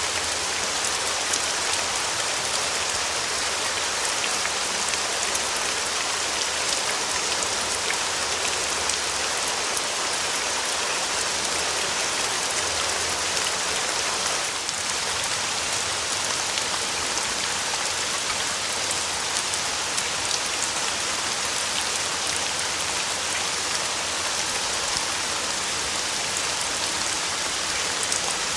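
Steady rain falling on a surface, a dense patter of drops with no let-up.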